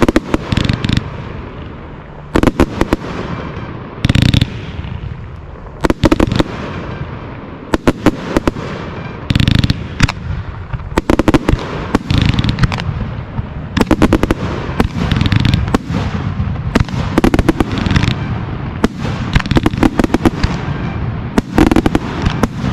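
1.3G display fireworks going off in rapid succession: a dense run of sharp reports, with heavier booms every second or two.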